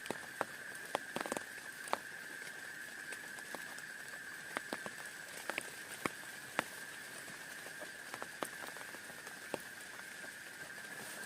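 Rain falling, with a steady hiss and irregular sharp drops striking a surface close by, a few loud ones clustered near the start and around the middle. A steady high-pitched tone runs underneath.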